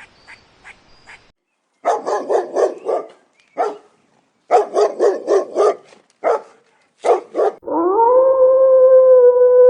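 A dog barking in quick volleys of four or five barks, with single barks between them. Near the end it breaks into a long howl that rises in pitch and then holds steady.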